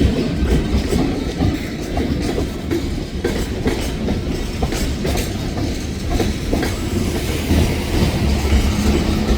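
Escanaba & Lake Superior Railroad train rolling past, its wheels clicking over the rail joints over a steady low rumble.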